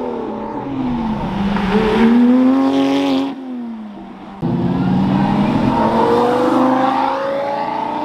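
Performance car engine accelerating hard, its pitch climbing through the revs and falling back at each gear change. The sound drops away suddenly about three and a half seconds in, then a second hard pull starts abruptly about a second later and climbs again.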